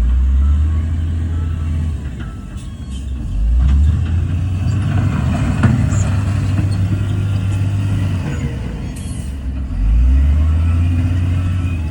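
Heavy diesel earthmoving machinery at work: a deep engine rumble that swells under load at the start, again about three and a half seconds in, and near the end.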